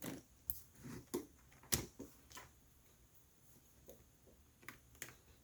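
Light clicks and taps of ThinkPad X1 Yoga laptop parts being handled and pried during disassembly: a quick cluster in the first two seconds or so, the sharpest about halfway through it, and a couple more near the end.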